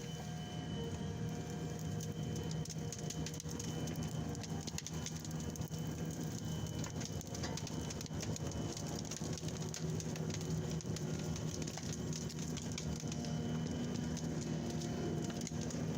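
Heavy forestry machine's diesel engine running steadily, with dense crackling and snapping of wood as timber is processed.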